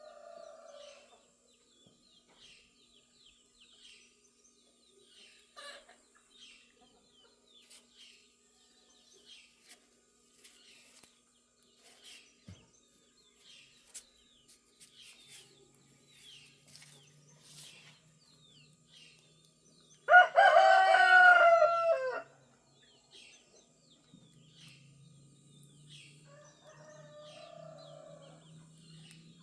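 A rooster crows loudly once, about two-thirds of the way through, over steady chirping of small songbirds. Fainter, more distant crows come near the start and near the end.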